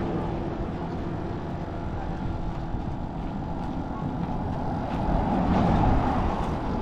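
A motor vehicle's engine running steadily, getting somewhat louder about five seconds in.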